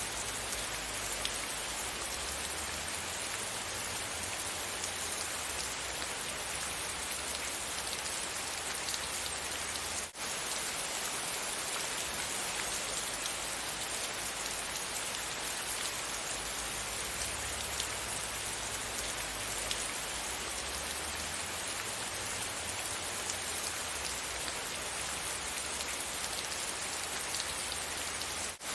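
Steady rain falling, an even hiss of drops with a light patter. It drops out for an instant about ten seconds in and again near the end.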